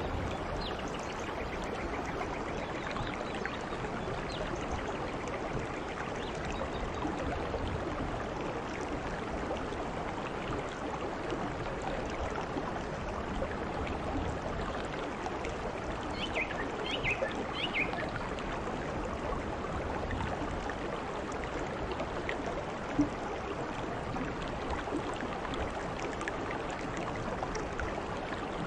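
Steady heavy rain pouring down on garden foliage, an even rushing hiss. A few brief high chirps come about two-thirds of the way through, and a single short knock a little later.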